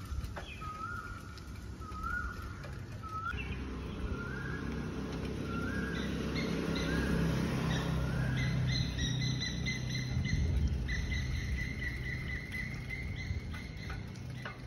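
A bird calls a short rising note over and over, about once every 0.8 s, for the first half. Later a higher, steady trilling call with quick ticks carries on, while a low rumble swells and fades in the middle.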